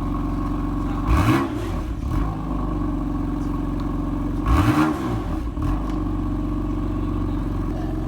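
BMW M4 GTS twin-turbo inline-six exhaust idling steadily, blipped twice: two short revs, each rising and falling back to idle, about a second in and again about three seconds later.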